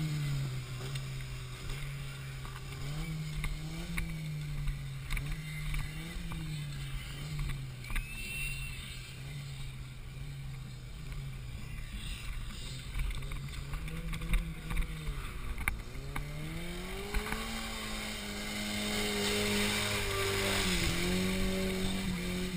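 Off-road 4x4's engine running, its pitch rising and falling repeatedly as the throttle is worked through the mud, then climbing to a higher, held pitch about three-quarters of the way through.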